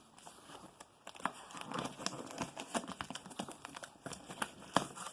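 Cardboard shipping box being opened by hand: paper and packing material rustling and crinkling with irregular sharp crackles, starting about a second in.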